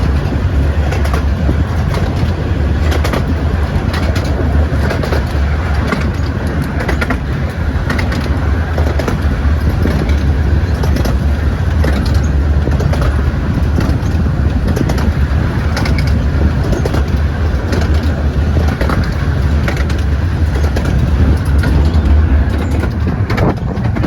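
Train on the 15-inch-gauge Romney, Hythe & Dymchurch Railway running along the track: a steady low rumble with many short clicks of the wheels over the rails.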